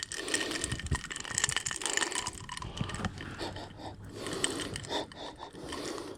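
A quick run of small clicks, knocks and scrapes from handling the whisky bottle and a glass.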